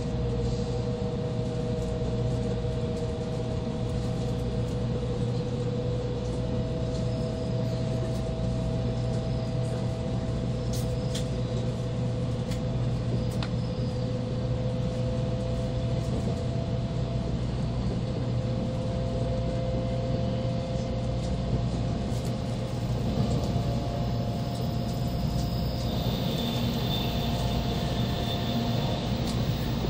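Cabin noise inside an N700-series Shinkansen car running at reduced speed under a heavy-rain speed restriction. It is a steady rumble with a whine that slowly rises in pitch, and a few faint ticks.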